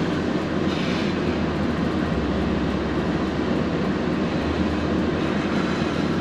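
Steady noise inside a car's cabin: the heater fan blowing at full speed onto the windscreen, over a low road and engine hum that shifts a little about two seconds in and again near four and a half.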